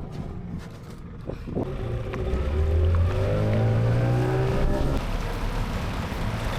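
Boat engine running and revving up, its pitch rising for a couple of seconds, then holding steady before easing off.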